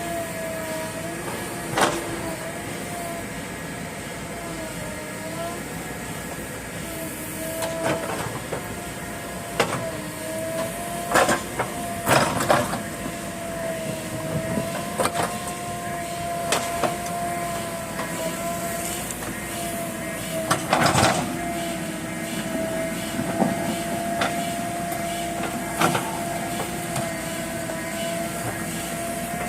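JCB backhoe loader's engine running steadily, its pitch dipping and recovering every few seconds, with scattered sharp knocks and clanks, the loudest around the middle.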